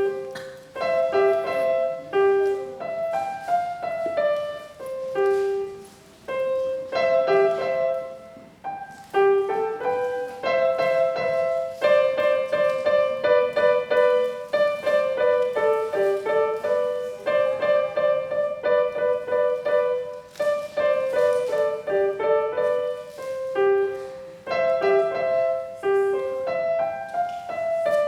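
Piano playing a simple beginner's piece: a plain melody of separate notes over chords at a steady, moderate tempo.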